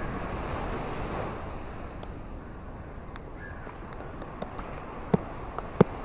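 Steady rain with a low rushing hiss and scattered separate drops landing close by; two sharp drops near the end are the loudest.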